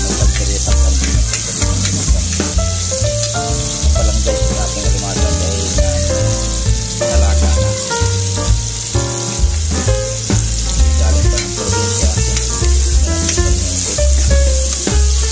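Garlic, red chili and onion sizzling in hot oil in a wok, stirred now and then with a spatula, under background music with a steady bass line.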